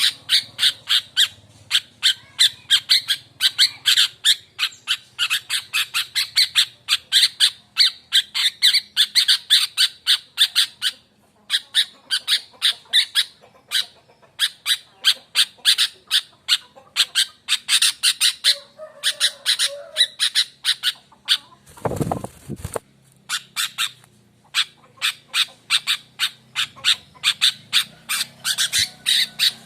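Sooty-headed bulbul (kutilang) calling in a rapid run of sharp, harsh notes, about three or four a second, with a couple of brief pauses. About 22 seconds in, a short loud burst of noise cuts across the calls.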